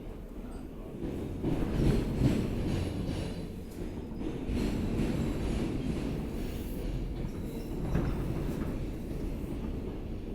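R160B subway car running through the tunnel, heard from inside: a steady low rumble of wheels on rail, with a few sharp knocks from the track about two seconds in and again near the end.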